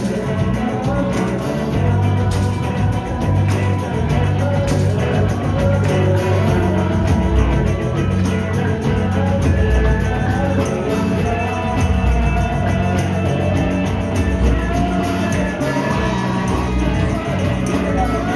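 A rock band playing live, with guitar, bass and drums, and a voice singing.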